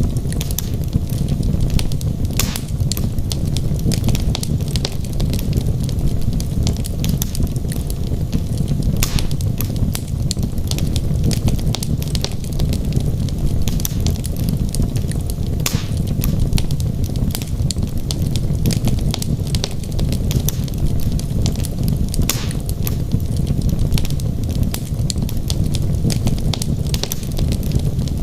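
Wood fire burning in a fireplace: a steady low rumble of flames with frequent sharp crackles and pops from the logs, scattered irregularly.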